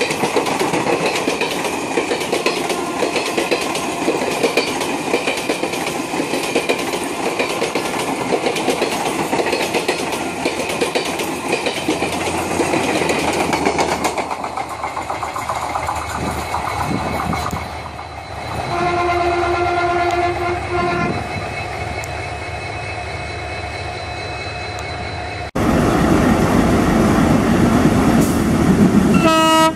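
Passenger coaches rolling past close by, with steady wheel clatter over the rail joints; about two-thirds of the way through a train horn sounds for about two seconds. After a sudden cut, a diesel locomotive and its train run past louder and lower, with a short horn blast near the end.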